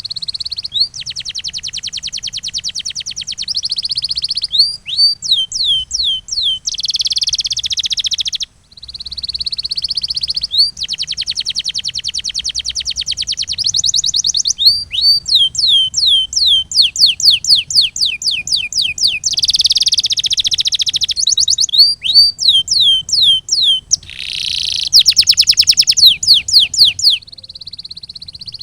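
A domestic canary singing a long continuous song: fast rolling trills alternate with runs of repeated, quickly falling whistled notes, several a second. There is a brief break about eight seconds in.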